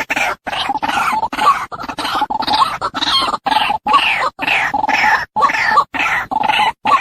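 Female white-breasted waterhen calling, played as a lure recording: a fast run of repeated calls, chopped by short silent gaps about every half second.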